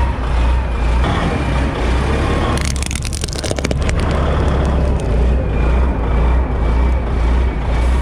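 Heavy truck engine running with a steady low rumble, and a rapid run of cracks and snaps about three seconds in as the toy truck breaks under the load.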